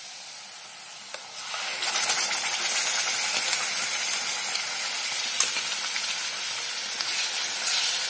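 Tomato puree poured into hot oil in a kadhai, setting off a loud hissing sizzle about two seconds in after a quieter sizzle of the frying onion-garlic masala.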